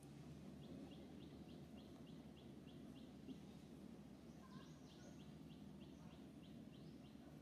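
Faint, rapid series of short high chirps, about three a second, from a bird calling, over a steady low background hum.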